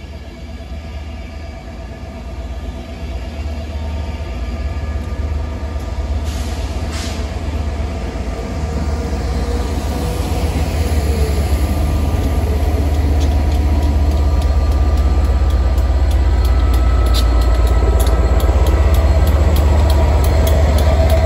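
A train approaching: a deep rumble that grows steadily louder, with clicks from the wheels over the rails in the last few seconds.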